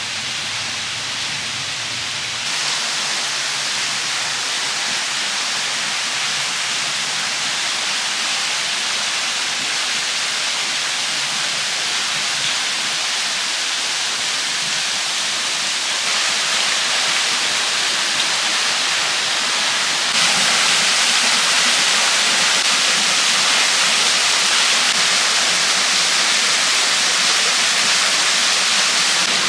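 Waterfall: a steady rush of falling water that grows louder in a few steps, about two seconds in and again past the middle.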